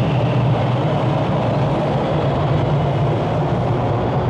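Toronto TTC subway train in motion: a steady, loud rail noise with a low hum, unchanging throughout.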